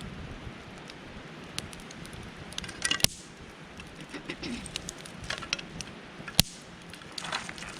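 Wood campfire crackling, with small irregular crackles and two sharp pops, the first about three seconds in and the second about six seconds in.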